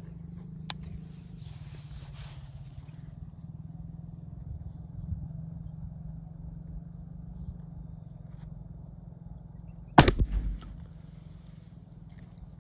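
Wind buffeting the microphone as a steady low rumble, with a single shot from a Hatsan Trophy rifle about ten seconds in: one sharp crack with a short echoing tail.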